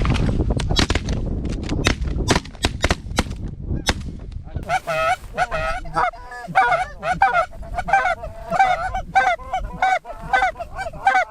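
Geese honking and clucking in quick succession: sharp, rapid clucks for the first few seconds, then a steady string of repeated honks. Wind rumble on the microphone runs underneath.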